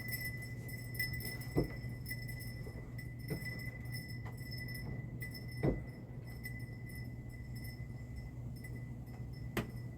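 A few light clinks and taps, about five spread out, over a steady low hum.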